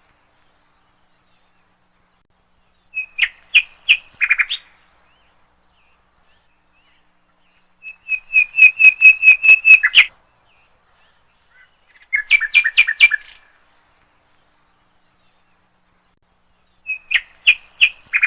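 A songbird singing in short phrases of quickly repeated bright chirps. There are four phrases, each about one to two seconds long, with pauses of a few seconds of silence between them. The third phrase is the longest and loudest.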